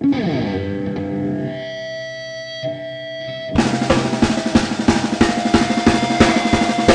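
Rock band playing: ringing, held electric guitar chords with a sliding note, then about three and a half seconds in the drum kit and the full band come in with a steady beat.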